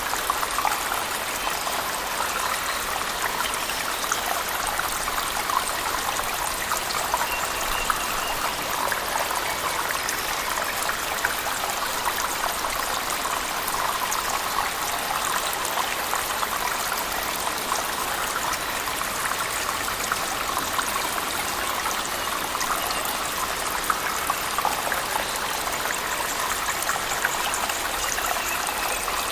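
Waterfall splashing in a cave, mixed with heavy rain, in a steady, unbroken rush of water.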